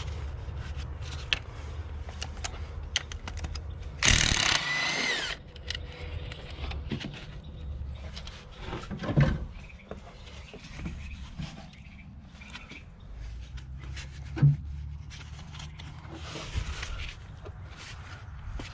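Hand tools and metal parts clicking and clinking during work in an engine bay, with a louder burst about a second long near four seconds in and a sharp knock near the end, over a steady low rumble.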